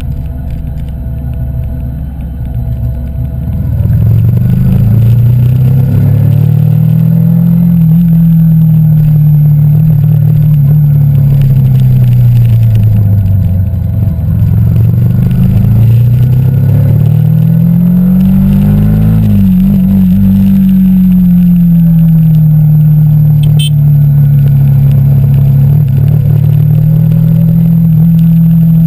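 Yamaha YZF-R15 v2.0's 150 cc single-cylinder engine, fitted with a K&N air filter, running under a rider on the road. It is quieter for the first few seconds, then twice climbs in pitch under acceleration and drops back as the throttle eases, and settles into a steady cruising note near the end.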